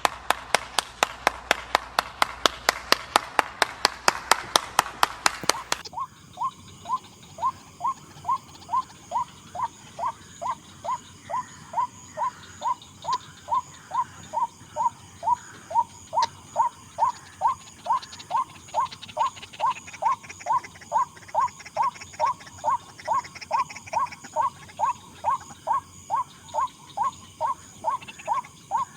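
White-breasted waterhen calling, the monotonous 'ruak' note repeated about twice a second. For the first six seconds a harsher, faster clicking series sounds, then stops abruptly, leaving the steady run of calls.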